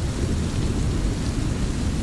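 Steady rain hiss with a low rolling rumble of thunder beneath it.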